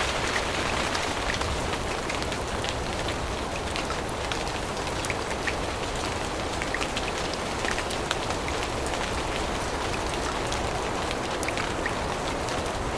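Steady rain falling in a forest, an even hiss with many scattered close drops ticking.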